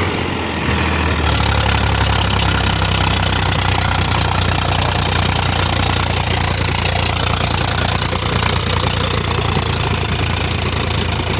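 Tractor's diesel engine running steadily and loudly, growing louder about a second in, with a knocking diesel clatter.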